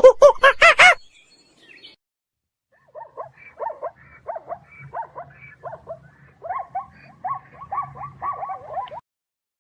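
Animal calls: a few loud, pitched honking calls that stop about a second in, then, after a short gap, a run of quieter short yelping calls, roughly two a second, that lasts until near the end.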